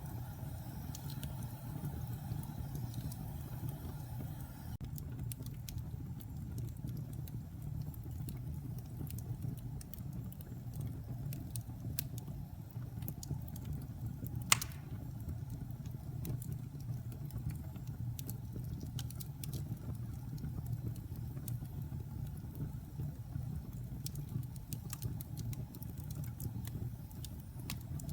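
Log fire burning with a steady low rumble and scattered small crackles, and one sharp loud pop about halfway through.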